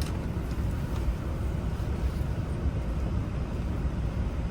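Steady low rumble of background noise, with a couple of faint clicks about half a second and a second in.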